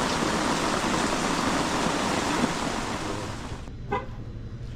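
Steady heavy rain falling, a dense even hiss, that cuts off sharply about three and a half seconds in. A quieter low hum follows, with a brief pitched sound just after the cut.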